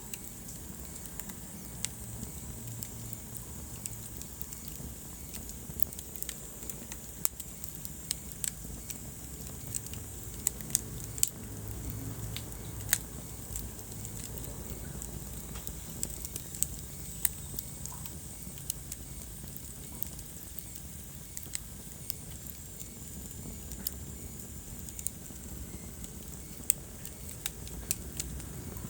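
Wood fire burning in a fireplace: a steady low rumble of flames with irregular sharp crackles and pops, a few louder pops in the middle.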